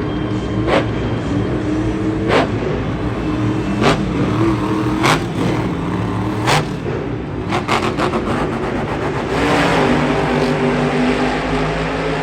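Monster truck engines running and revving in a stadium, their pitch shifting, with a sharp bang every second or two and a quick cluster of bangs about eight seconds in; the sound grows louder and fuller about nine and a half seconds in.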